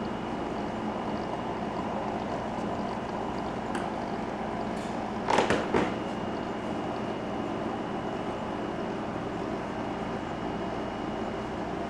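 Vintage rain lamp's small oil pump running with a steady hum. A brief cluster of knocks about five seconds in.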